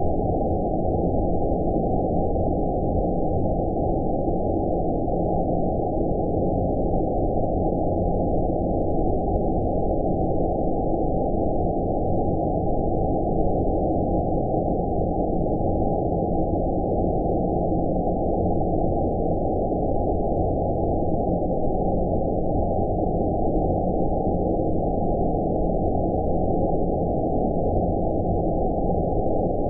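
Steady synthetic 'outer space' sleep noise: a deep, muffled hiss with all its energy in the low and middle range and nothing high, unchanging throughout.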